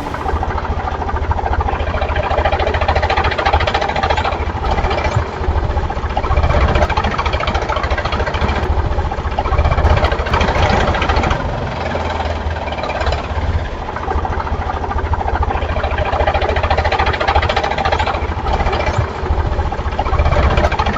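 Tractor engine running steadily with a rapid, even knocking beat, like a diesel at idle to low revs.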